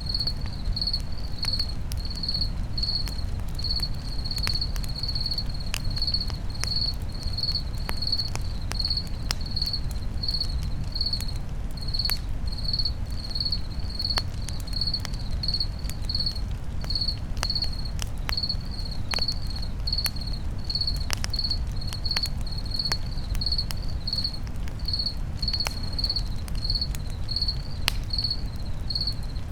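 Campfire crackling, with scattered sharp pops over a low steady rumble. A cricket chirps evenly throughout, about two short high chirps a second.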